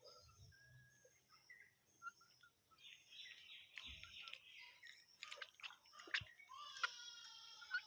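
Faint chirping and twittering of small birds, with many short overlapping calls. It grows busier about three seconds in and again near the end, with a few sharp clicks in between.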